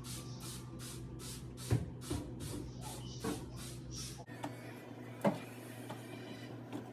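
Trigger spray bottle of household cleaner squirted over and over, quick even hisses at about three a second, stopping about four seconds in. A low hum cuts off at about the same point, and a couple of light knocks follow.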